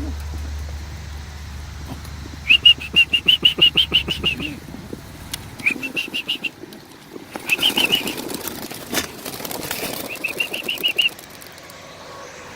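A flock of young racing pigeons released from their transport boxes, wings flapping as they take off, with several bursts of rapid, high-pitched squeaking pulses.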